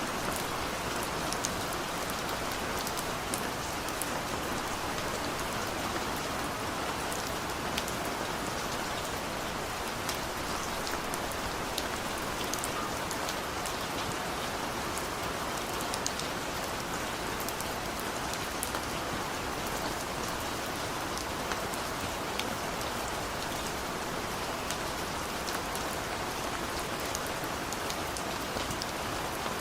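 Steady rain falling: an even, unbroken hiss dotted with many small, sharp drop splats.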